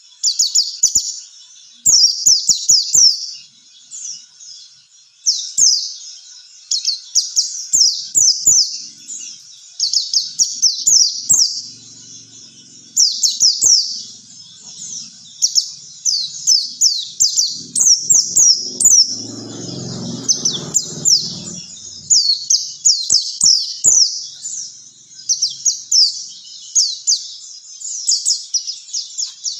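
White-eye (pleci) song: rapid, high-pitched twittering phrases of quick down-slurred chirps, coming in bursts of several notes with short pauses between them.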